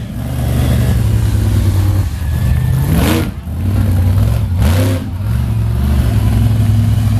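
Monster truck engine running loud at a steady low pitch, with two quick revs that sweep up and back down about three and five seconds in.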